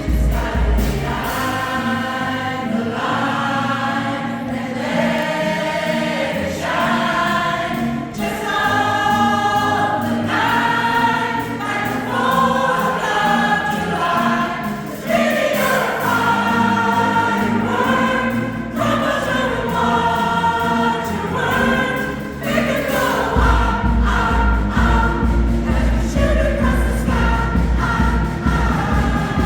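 A choir singing a pop song in many voices over accompaniment. A heavy low beat drops out about half a second in and comes back in about 23 seconds in.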